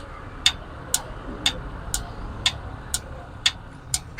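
AdBlue dosing unit of a BharatBenz 2826R's Cummins SCR system clicking about twice a second, evenly, as it pulses during a dosing test.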